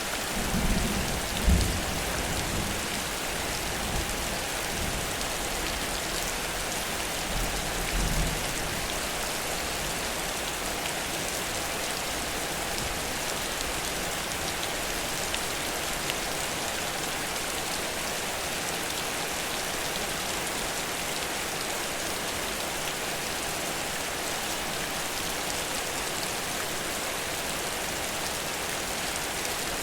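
Heavy rain falling steadily in a dense, even hiss, with a couple of brief low rumbles in the first several seconds.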